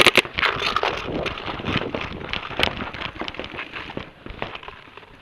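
Paintball markers firing: a rapid string of shots cuts off just after the start, followed by scattered single shots and a rustling noise that fades over the next couple of seconds.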